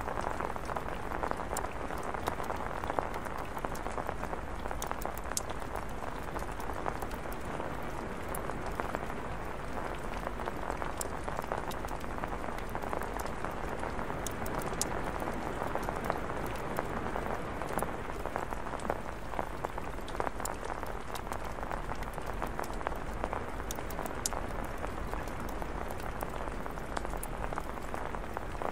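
Heavy rain falling steadily, with scattered sharp crackles from a burning campfire.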